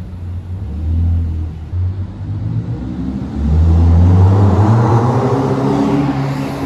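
Car's four-cylinder engine running, then pulling harder and louder from about halfway through as it revs up.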